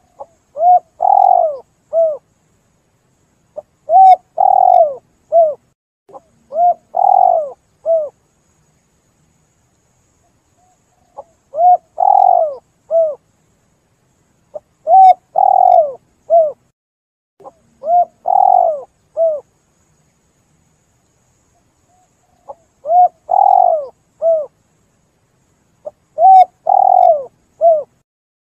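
Spotted dove cooing: about eight phrases of three or four coo notes each, coming in groups of two or three phrases with pauses of a few seconds between groups.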